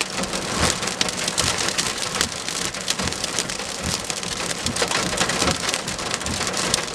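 Thunderstorm downpour with hail pelting a car's roof and windows: a dense, loud patter shot through with many sharp hits.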